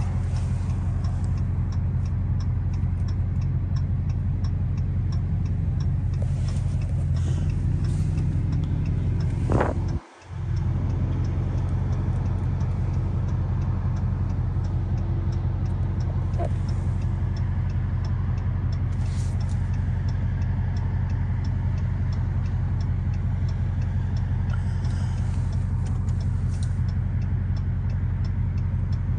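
Dodge Charger SRT Hellcat's supercharged 6.2-litre Hemi V8 running steadily, heard from inside the cabin, with a light regular ticking of roughly two to three a second over it for most of the time. The sound cuts out briefly about ten seconds in.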